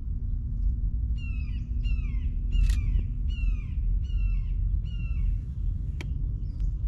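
Red-shouldered hawk calling: a quick series of about eight sharp, descending screams. A steady low rumble runs underneath, and there are a couple of faint clicks.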